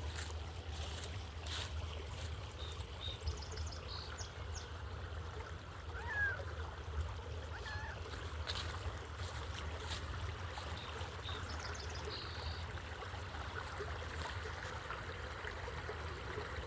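Steady outdoor background noise with a low rumble. A few faint, short high chirps come twice, about three seconds in and again near twelve seconds, with light scattered clicks.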